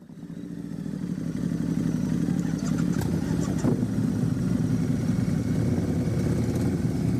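Motorcycle engine rumble, likely from vintage Harley-Davidsons, that cuts in suddenly and builds over about two seconds to a steady low drone, with a few light clicks about three seconds in.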